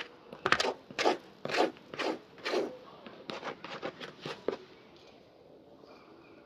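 Rubbing strokes across a leather shoe during a shoe shine: about five strong back-and-forth strokes half a second apart, then a run of quicker, lighter strokes that stop a little past the middle.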